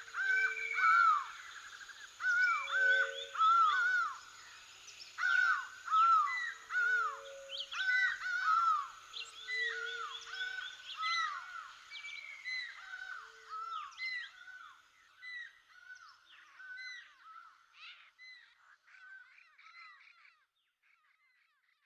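Birds calling: many short, arched calls repeated and overlapping, with some lower, flat calls among them in the first half. The calls thin out and fade away over the last several seconds.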